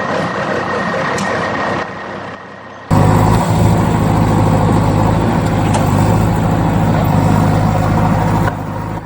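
Heavy vehicle engine running, then an abrupt cut about three seconds in to a louder, steady engine drone with a low hum, which drops off near the end.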